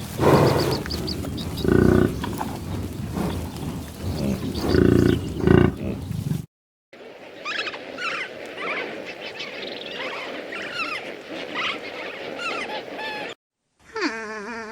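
Animal calls in three separately cut clips. First come loud, low calls several times over. Then a run of short, high chirping calls over a steady hum, and near the end a falling, pitched call begins.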